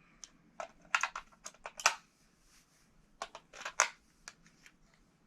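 Irregular sharp clicks and clatters of small hard objects being handled: AAA batteries being fitted into a cheap plastic radio-control remote.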